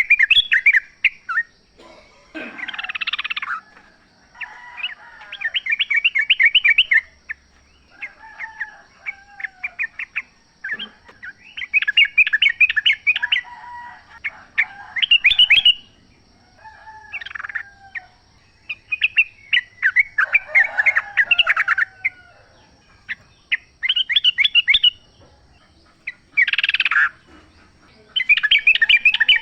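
Yellow-vented bulbuls (trucukan) singing in the wild. Short, rapid bubbling phrases follow one another every second or two, with brief pauses between them.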